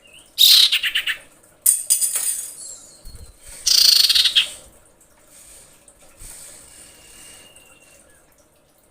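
Female common iora in breeding condition calling for a male: three loud, harsh, rattling bursts in quick succession, then a faint thin whistle later on.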